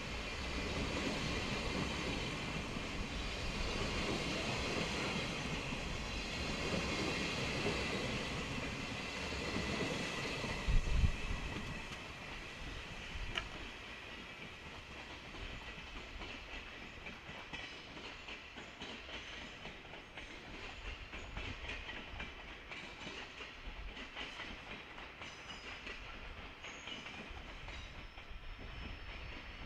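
Sleeper train's 24-series passenger coaches rolling past, wheels clattering over the rail joints, with the loudest knocks about eleven seconds in as the last cars go by. After that the rumble fades as the train pulls away down the line.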